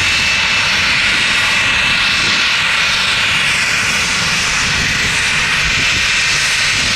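Jet airliner engines running loud and steady, a dense unbroken noise with a strong high hiss.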